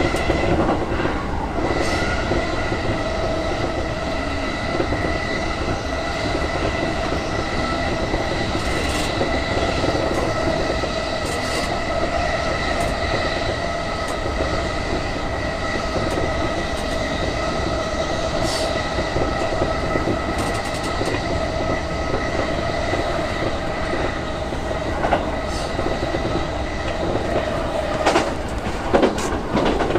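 E233 series 6000 electric commuter train running at speed, heard from inside the front car: a steady running rumble with steady whining tones, and occasional sharp clicks of the wheels over rail joints.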